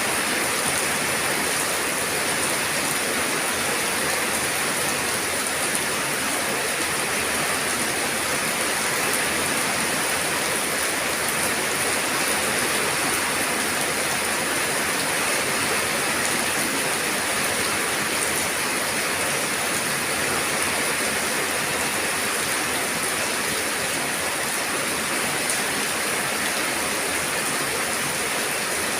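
Steady rainfall, an even hiss of rain with no break or change.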